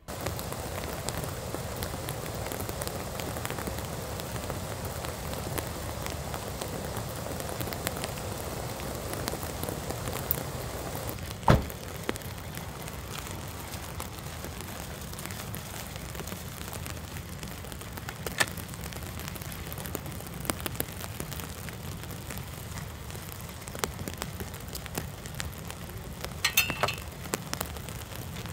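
Steady rain falling on a vehicle, with scattered louder drops ticking through it. One sharp thump stands out about eleven seconds in, and a short cluster of ticks comes near the end.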